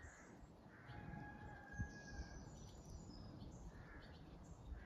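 Quiet outdoor ambience with faint, distant bird calls, one held as a thin whistle for about a second near the middle.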